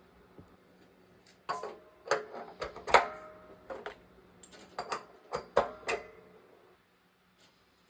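Metal parts knocking and clinking together about a dozen times, some strikes ringing briefly, as tools and fittings are handled during the plumbing work, over a faint steady hum. The clatter stops about six seconds in.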